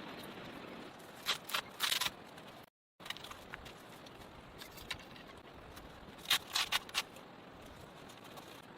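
Camping gear being handled: two short clusters of sharp clicks and scrapes, about a second in and again about six seconds in, over a faint steady hiss.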